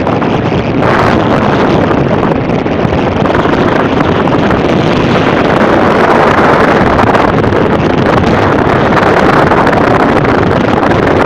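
Storm wind blowing hard against the microphone, a loud steady rush that swells a little in the middle.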